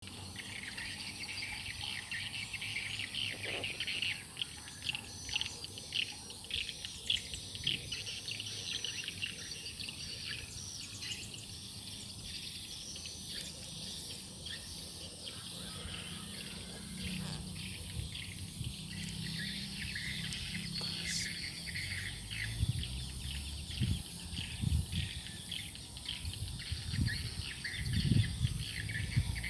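Forest birds chirping and calling over a steady high-pitched insect drone, with low rumbling thumps in the last several seconds.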